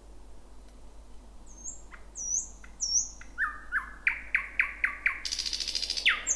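Thrush nightingale singing one phrase. A few soft clicks and three high whistled notes lead into a run of about five loud, quick notes, each sliding downward. About five seconds in these break into a dry rattling trill, which ends on a sharp downslurred note.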